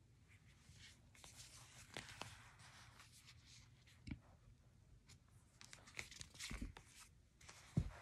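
Hands handling a hardcover picture book, with faint rustling and sliding as it is turned over and back. A few soft thumps come as it is set down, the loudest near the end.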